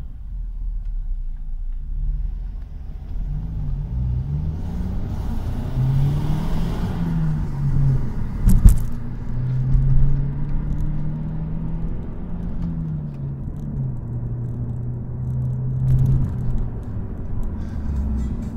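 Car engine heard from inside the cabin, accelerating hard through the gears: the engine note climbs, drops and climbs again several times. There is a sharp knock about halfway through.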